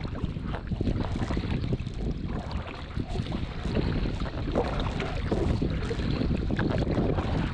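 Wind buffeting the microphone, a steady low rumble, while kayaking on a river.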